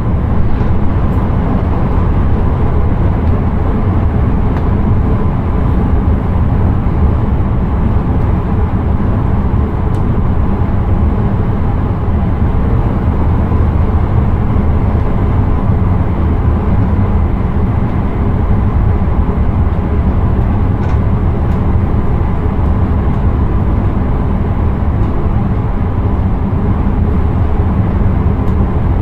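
Steady low rumble and rush of an intercity train running along the line, heard from inside the driver's cab, with a faint steady hum and a few light clicks.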